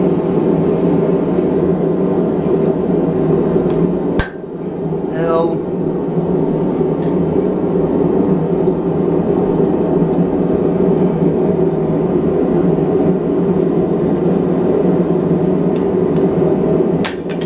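A steady, loud roar of running blacksmith-shop equipment, broken by a sharp knock about four seconds in and a few metal clinks near the end.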